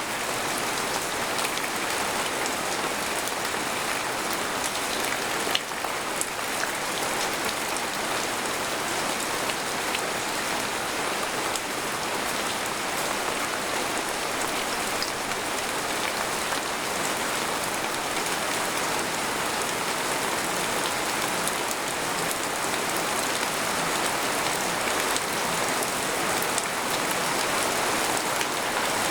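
Steady rain falling on a tent, heard from inside, a dense even patter with occasional single drops ticking close by, the sharpest about five and a half seconds in.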